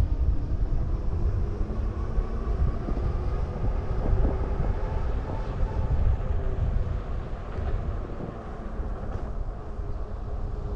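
Wind buffeting the microphone and road rumble while riding a Super73 electric bike, a steady, unbroken low rush.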